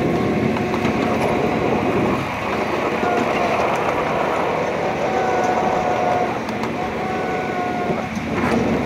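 Small ride-on garden train rolling along its track: a steady rumble and rattle of the open car, with a faint, thin whine that comes and goes, once near the middle and again near the end.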